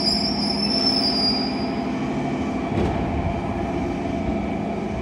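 JR 205 series electric multiple unit pulling in alongside the platform: a high-pitched brake and wheel squeal that fades out about two seconds in, over the steady rumble of the cars.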